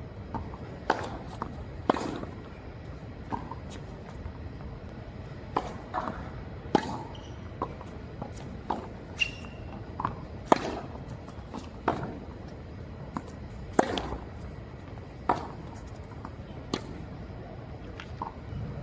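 Tennis rally: sharp pops of a racket striking the ball and of the ball bouncing on the court, about one every second or two.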